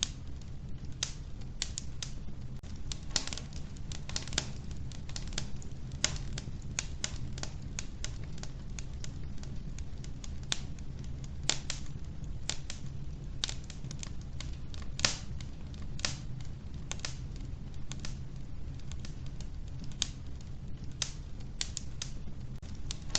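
Wood fire in a wood-burning stove: logs crackling with irregular sharp pops and snaps, a few a second, over a steady low rumble of the burning fire.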